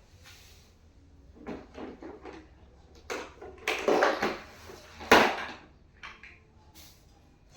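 Office chair parts being handled and knocked together during assembly: a run of knocks and scrapes, the loudest a sharp knock about five seconds in.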